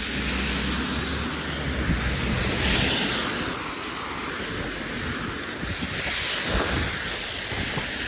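Street traffic passing on a snowy road: a vehicle's low engine hum under a swell of tyre hiss that is loudest about three seconds in.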